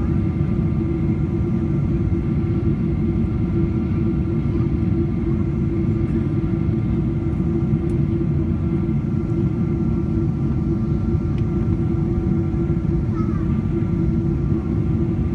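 Steady jet airliner cabin noise aboard a Boeing 777-200ER in flight: a constant low rumble with a few faint steady high tones running through it.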